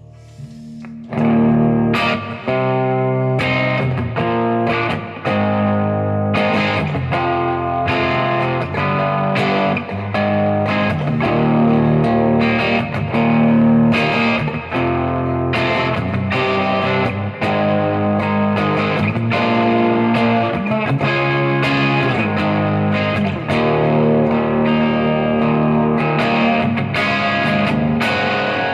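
Gibson Les Paul electric guitar played through a Third Eye overdrive pedal into a Marshall amplifier: distorted chords and riffs. A faint held note opens, and loud playing comes in about a second in.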